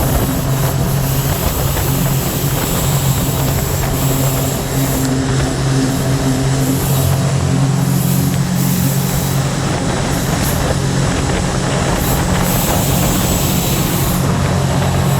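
The three-cylinder Rotax 1503 4-TEC engine of a Scarab 165 ID jet boat running steadily under way, holding an even pitch.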